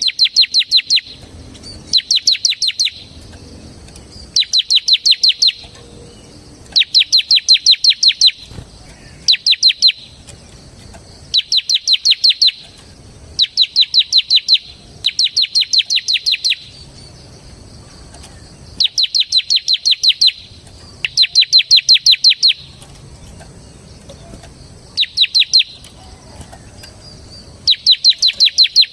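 Bar-winged prinia (ciblek) singing in rapid rattling bursts. Each burst is a quick run of about ten evenly repeated high chips lasting around a second, and a new burst follows every second or two.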